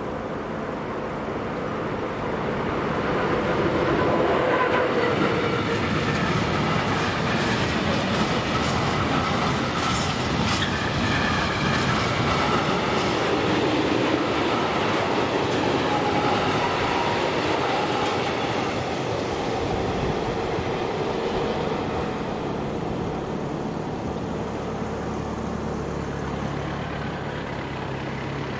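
A train passing, its wheels rolling and clattering on the rails. The sound builds over the first few seconds, holds, and eases off toward the end.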